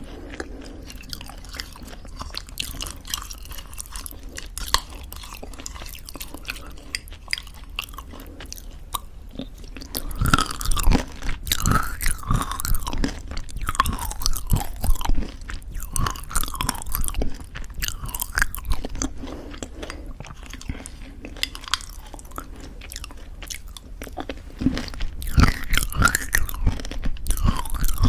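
Close-miked chewing of homemade granola in thick yogurt, with crisp crunching and wet mouth sounds. The crunching is quieter and sparser at first, gets denser and louder about a third of the way in, eases off, and picks up again near the end.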